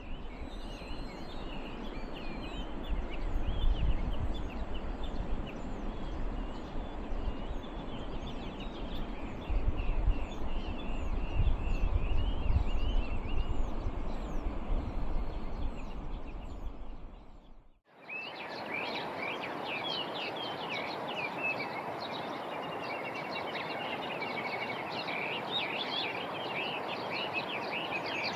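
Many small birds chirping and calling at once in quick, overlapping short notes, with a heavy low rumble underneath. The sound breaks off abruptly about two-thirds of the way in and resumes as clearer chirping without the rumble.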